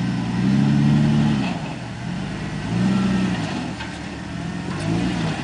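Off-road 4x4's engine revving in three bursts under load as it tries to climb a rock ledge with a wheel in a hole. The first rev is the longest and loudest.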